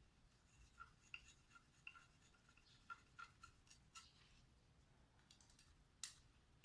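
Near silence with faint, scattered light clicks and taps, some with a short pitched ring, as of small parts or tools being handled. The sharpest click comes about six seconds in.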